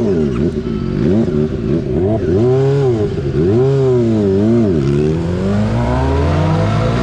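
Motorcycle engine revving, its pitch swinging up and down several times, then climbing steadily near the end as it accelerates.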